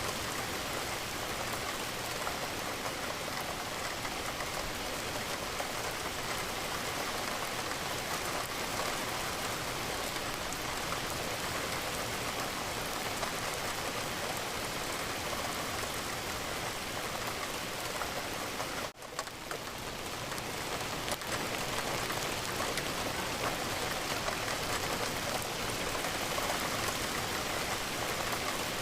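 Steady rain falling, an even hiss of drops throughout, with a brief sudden dip in level about two-thirds of the way through before it swells back.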